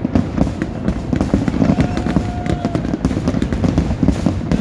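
Fireworks display: a continuous run of bangs and crackles over a dense low rumble, with a brief steady whistle-like tone about two seconds in.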